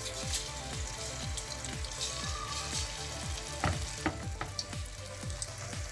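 Marinated chicken pieces frying in hot cooking oil in a kadhai: a steady sizzle as the freshly added batch starts to fry.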